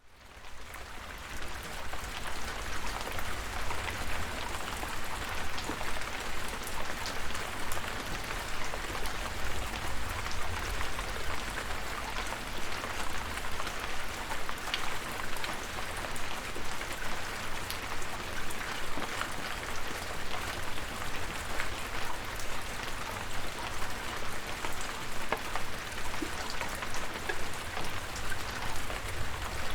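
Steady rain falling, with many individual drops ticking through the constant hiss and a low rumble underneath. It fades in over the first second.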